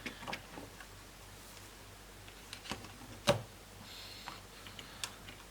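A few sharp, separate clicks and taps of plastic laptop parts being handled, the loudest a little past halfway through.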